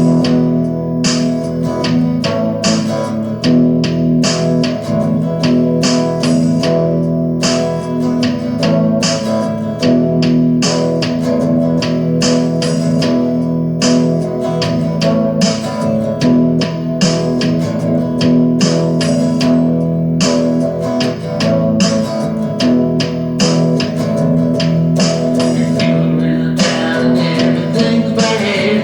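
Guitar-led music with a steady beat of sharp strokes over sustained notes.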